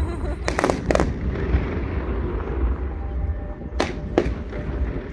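Fireworks exploding: three sharp bangs in quick succession about half a second in, then two more about a second apart near the end, over a steady low rumble.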